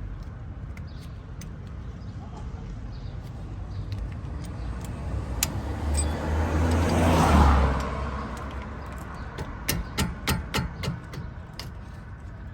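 A vehicle passing by, its noise swelling to a peak about seven seconds in and then fading. It is followed by a quick run of sharp clicks.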